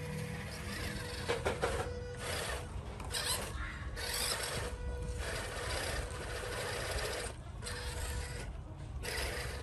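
Radio-controlled off-road truck driving over sand and stones: tyres scraping and crunching in uneven spurts, with several brief pauses.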